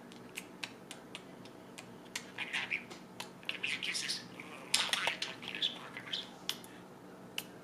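Pet budgerigar chirping and chattering: a stream of short clicks and quick twittering bursts, busiest around the middle.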